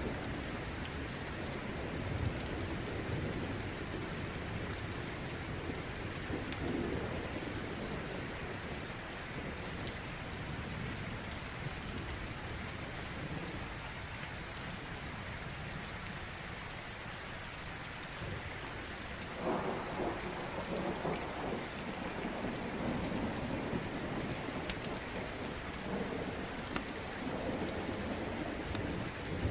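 Steady rain with low rumbles of distant thunder, strongest at the start and again about two-thirds of the way through. Small sharp crackles from a wood fire are scattered throughout.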